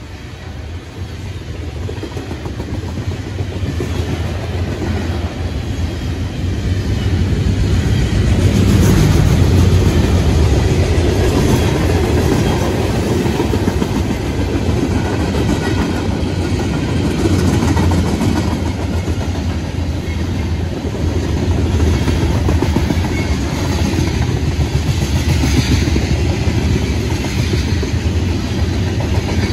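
CSX freight train approaching and growing louder over the first eight seconds or so, then passing close by with a steady rumble and the clickety-clack of wheels over rail joints.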